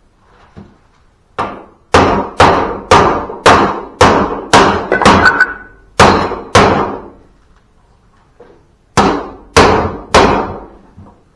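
Hammer blows, about two a second: a run of about ten, then a pause and three more near the end. They are the sound of a bent part on a zero-turn mower being smashed back into shape.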